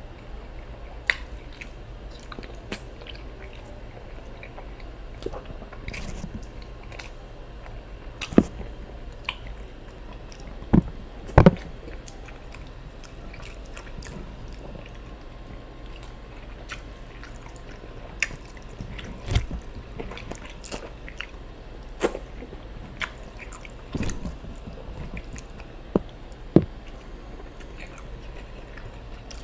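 Close-miked chewing and mouth sounds from eating ofada rice and stew, with irregular wet smacks and sharp clicks, the loudest a few about eight, eleven and twenty-six seconds in, over a steady low hum.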